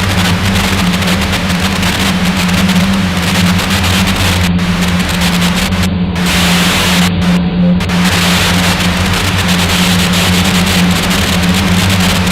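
Harsh noise drone: a loud, dense wall of static hiss over a steady low hum. The highs cut out briefly several times in the middle.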